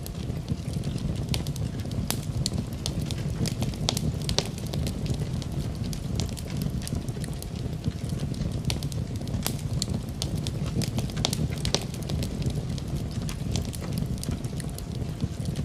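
Fireplace fire burning steadily: a low rumble of flames under frequent sharp crackles and pops, some louder than others, scattered at irregular moments.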